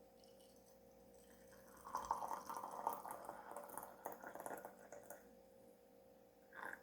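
Tea being poured into a cup, trickling and splashing for about three seconds, with a brief liquid sound near the end. A faint steady hum runs underneath.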